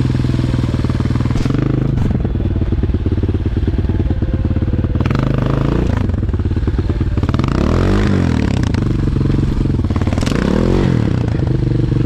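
Single-cylinder enduro motorcycle engine running close by, revved up and back down twice, about eight and ten and a half seconds in.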